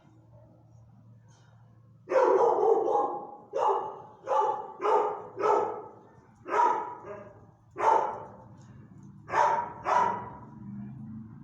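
Dog barking about nine times in a loud, uneven series, starting about two seconds in with a longer first bark.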